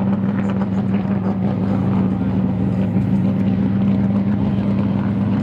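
Drift car engine held at high, steady revs: a constant drone that does not rise or fall.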